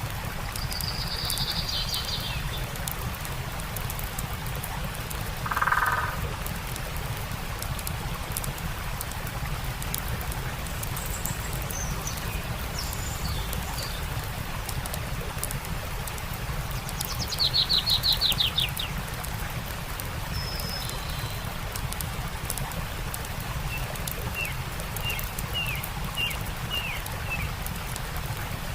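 A stream running steadily, with a campfire crackling in light, fast ticks and birds calling now and then: a short lower call about six seconds in, a rapid trill of falling notes about two-thirds of the way through, and a row of short chirps near the end.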